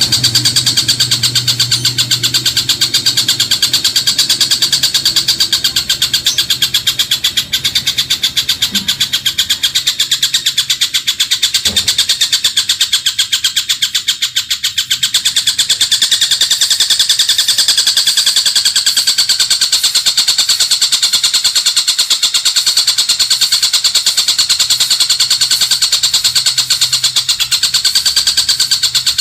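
Recorded bird song for training songbirds: a continuous, very fast high-pitched trill (the 'roll') that repeats many times a second, steady and loud.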